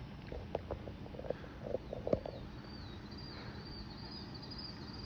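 A bird singing: one high, wavering trill lasting about three seconds, starting about halfway through. A few soft knocks come before it, in the first two seconds.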